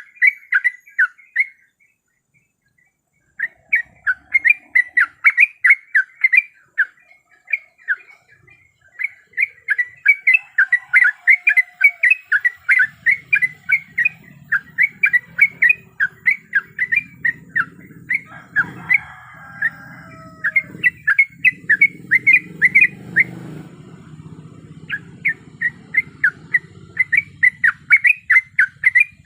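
Yellow-vented bulbul (trucuk) calling: fast runs of short, sharp chirps, several a second, in bursts with brief breaks. A low hum comes in under the calls about halfway through.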